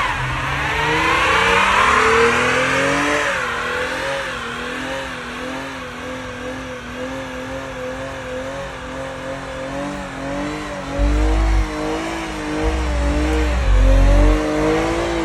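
Car engine held at high revs during a tyre-smoking burnout: the pitch climbs over the first few seconds, then bounces up and down. Deep low booms come in over the last few seconds.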